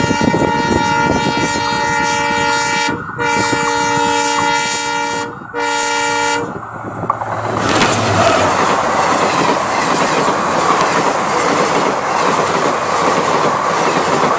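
Locomotive horn sounding in three long blasts, broken by two short gaps, that stops about six seconds in. Then the train runs past right at the rail, with a loud, steady rumble and clatter of wheels on track.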